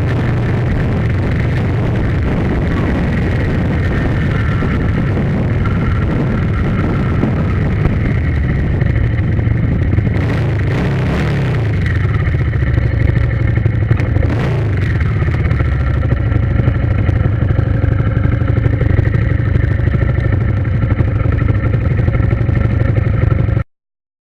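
An engine running steadily, its pitch shifting up and down about ten to fifteen seconds in, then cutting off abruptly near the end.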